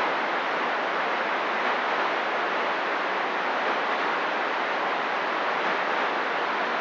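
CB radio receiver static: a steady, even hiss from an open squelch on a channel where nobody is transmitting.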